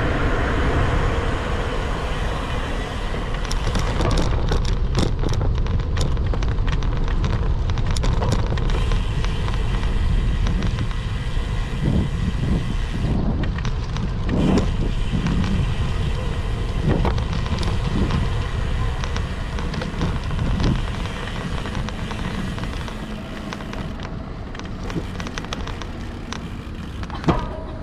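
Wind rumble and road noise on a camera microphone while riding a road bike, with traffic around and many small clicks and knocks from the bike and mount.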